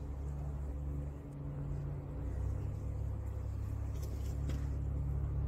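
A car engine running with a steady low hum, growing slightly louder.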